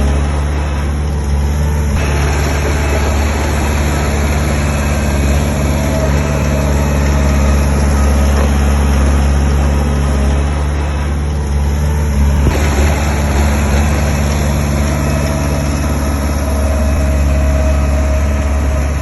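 Heavy diesel construction machine engine running steadily, with a rush of mechanical noise rising about two seconds in and again a little past halfway.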